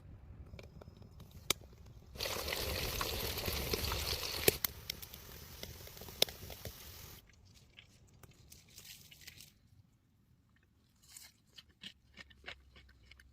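Crisp food crunching: a loud, dense crackling noise with sharp cracks in it starts suddenly about two seconds in and stops about five seconds later, followed by a few scattered crunches near the end.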